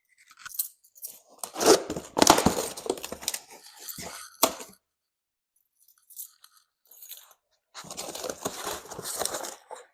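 Plastic packaging crinkling and rustling as parts are unwrapped and handled, in irregular bursts with a sharp knock about four and a half seconds in, then a pause and more rustling near the end.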